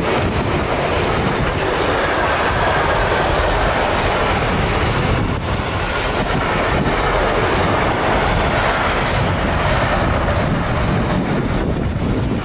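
A train passing by: a steady, loud rush of wheels on rails that thins out near the end.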